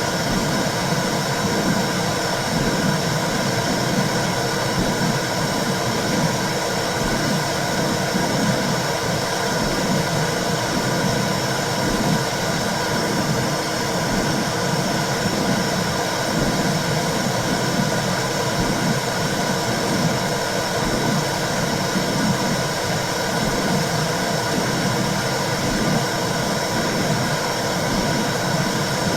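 Womb sound for soothing babies: a steady whooshing noise with a repeating low pulse running through it.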